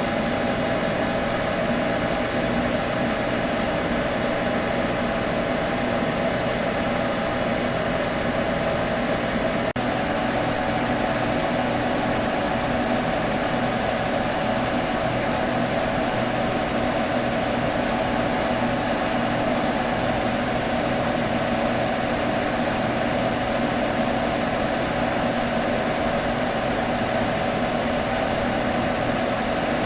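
A computer humming and whirring steadily: fan noise with a constant hum, and a tiny click about ten seconds in.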